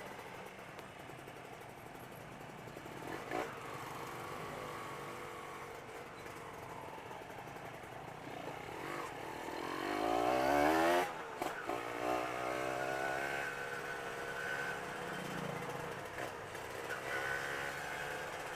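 Motorcycle engine running under way, revving up in a rising pitch around ten seconds in and dropping off sharply just after, then running on at a steadier note.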